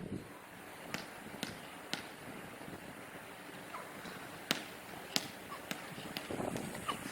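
A basketball bouncing, a string of sharp thuds: three about half a second apart near the start, then several more at uneven intervals in the second half, over a steady background hiss.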